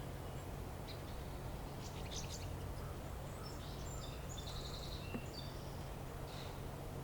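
Small birds chirping and calling in short scattered bursts over a steady low background hum.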